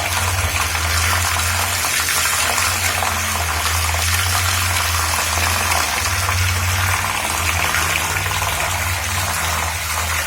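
Electric fan running with its blades in water, churning and splashing it steadily, over a constant low motor hum.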